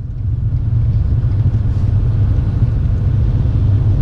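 Car driving along the road, heard from inside the cabin: a steady low rumble of engine and tyre noise.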